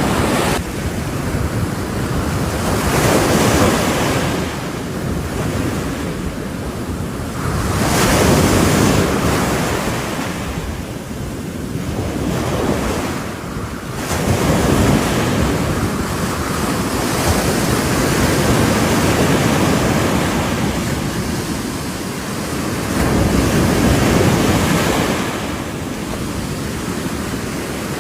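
Ocean waves breaking on the shore, the surf swelling and easing every few seconds, with wind buffeting the microphone.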